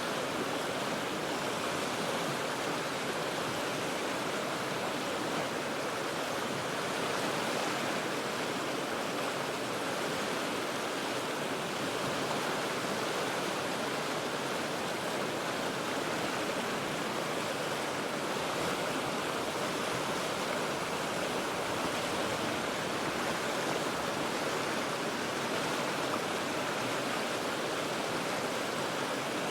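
River water rushing over rocks in a steady, unbroken rush.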